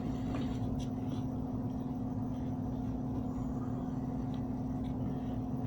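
A steady low hum, as of a motor or appliance running, with a few faint clicks over it.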